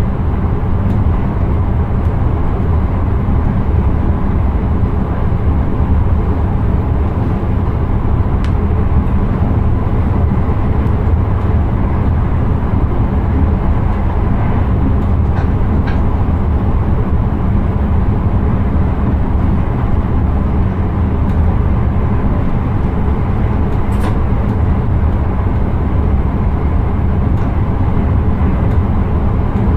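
Steady rumble of an intercity train running along the line, heard inside the driver's cab, with a few faint clicks.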